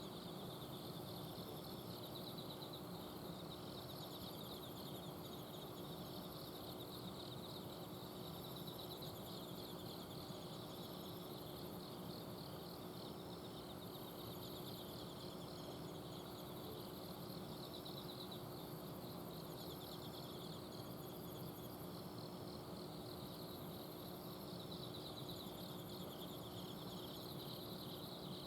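Autumn night insects such as crickets chirping together, several kinds in pulsed trills that come in repeated phrases a few seconds long, over the steady low hum of an air-conditioner outdoor unit.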